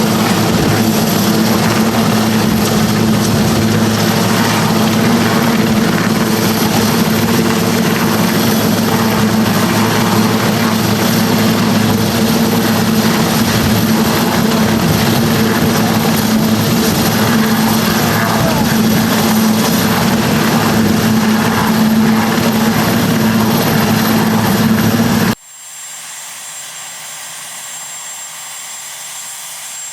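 Marine One helicopter running loud and steady: a dense rush of rotor and turbine noise over a deep, even hum. About 25 seconds in it cuts off abruptly to a much quieter steady background with a faint high whine.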